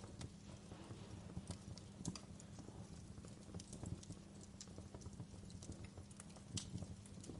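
Wood fire crackling in a fireplace: irregular small snaps and pops over a soft low rush of burning, with a few louder pops about two seconds in and near the end.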